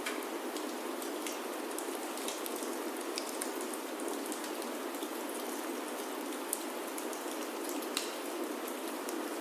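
Steady, gentle rain falling on a wooden chalet roof, with a few scattered sharp ticks and pops.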